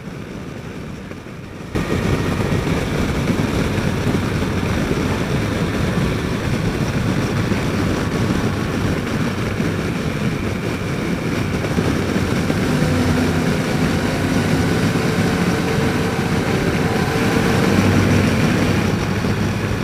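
Motorcycle engine and road noise from the rider's helmet mic while riding through a road tunnel: the sound jumps up about two seconds in as the tunnel walls echo it, holds loud with a steady engine hum, and drops away just before the end on leaving the tunnel.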